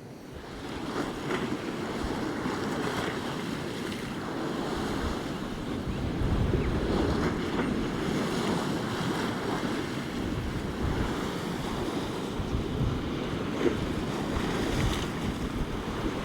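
Storm surf breaking on the North Sea shore in a gale, with strong wind buffeting the microphone in low rumbles. It gets louder just after the start and then runs on steadily.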